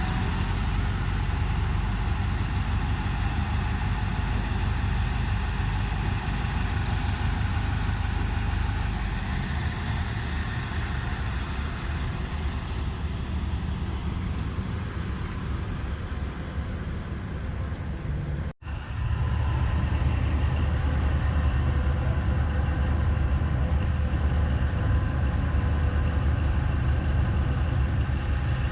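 Large haul truck's diesel engine running steadily at idle, a continuous low engine sound. It drops out for an instant about two-thirds of the way through, then comes back with a stronger low rumble.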